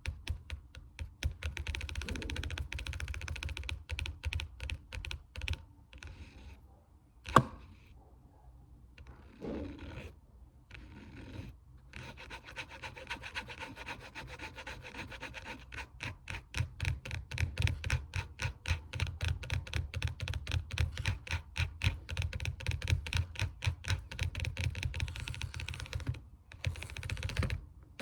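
Fast ASMR finger tapping: a rapid, dense run of light taps, many a second. It thins out for a few seconds near the middle, with one sharp knock, then picks up again, denser and louder.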